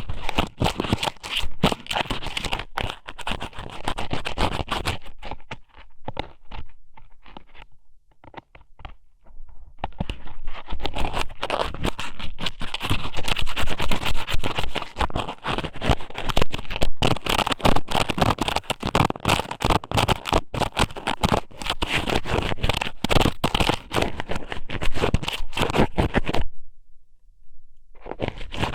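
Strips of raw squid (ika sōmen) pushed and rubbed inside a microphone's ear, very close up: dense, wet scratching and crackling. It goes quieter for a couple of seconds about a third of the way in and breaks off briefly near the end.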